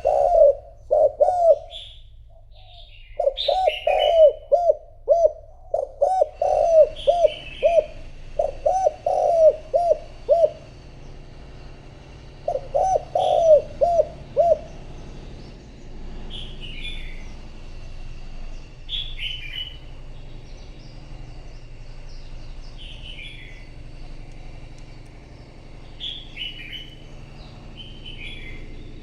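Spotted dove cooing in repeated phrases of several low notes, which stop about halfway through. Another bird's short, high, falling chirps repeat every few seconds.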